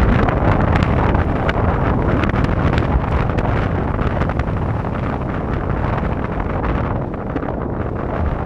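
Strong wind buffeting the microphone in a continuous loud rumble, with many quick crackles through it; it eases a little near the end.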